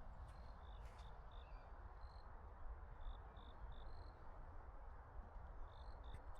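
Quiet forest ambience: short, high chirps repeat irregularly over a faint low rumble, with a few soft clicks.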